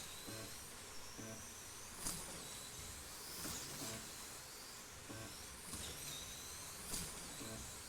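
Small electric slot car motors whining as the cars pass on the track, each pass a high whine rising and falling over about a second, with a few sharp clicks; the loudest click comes near the end.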